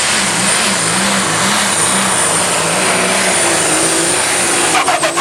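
Turbocharged diesel super stock pulling tractor running hard down the track, with a wavering engine note and a steady high turbo whistle. A few sharp pops come near the end as the pass falters.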